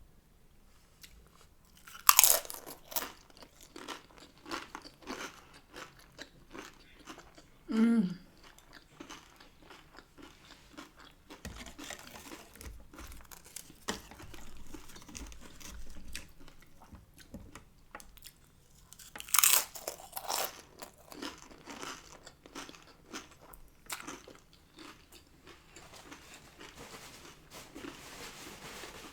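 Close-up biting and chewing of crisp fried corn tortilla (tortilla chips and hard taco shells): two loud crunching bites, one about two seconds in and one about two-thirds of the way through, with steady crackly chewing between.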